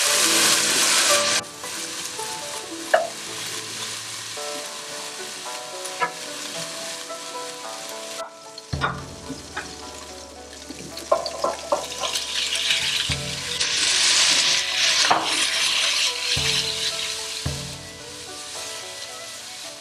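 Marinated beef strips sizzling in hot oil in a wok on high heat, stirred with a wooden spatula that now and then clicks and scrapes against the pan. The sizzle surges loudly for about a second at the start and again for a few seconds from about twelve seconds in, as fresh meat hits the hot oil.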